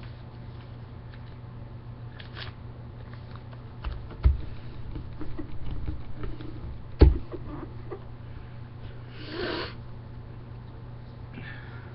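Sheet of printer paper being folded and creased by hand: short rustles and crinkles, with two sharp knocks about four and seven seconds in.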